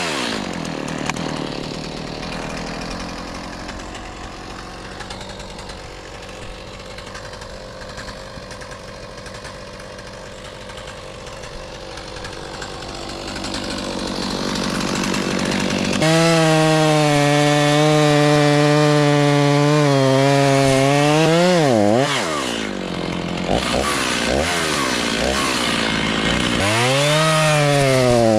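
Two-stroke chainsaw engine running, quieter through the first half, then held at full throttle in a long steady stretch from about halfway. Near the end the revs fall and climb again a couple of times as the throttle is eased and opened.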